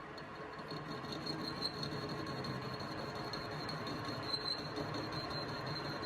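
A workshop machine running steadily with a thin high whine, growing a little louder about a second in.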